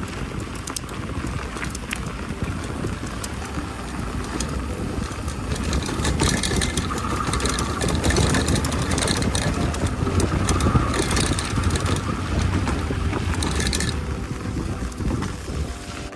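Mountain bike riding along a dirt fire track: tyre noise and gravel crunch under a heavy wind rumble on the microphone. The noise grows louder through the middle.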